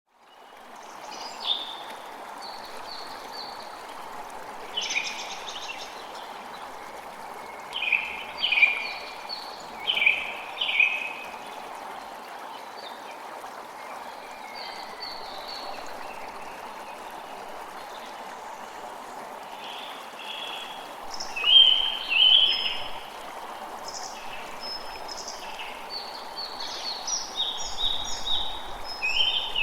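A steady rush of running water with birds chirping over it in short repeated phrases. The birdsong comes in several bouts, the loudest about a third of the way in and again past two-thirds.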